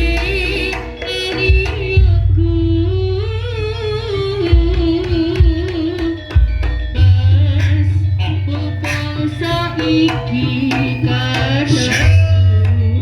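Javanese jaranan ensemble music: hand drums (kendang) strike a busy rhythm over heavy low bass, under a sung, wavering melody with vibrato.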